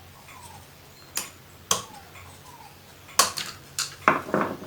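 Sharp plastic clicks and knocks, about six of them at uneven intervals, from the clips of a washing machine's plastic cam assembly being pressed and the part being handled.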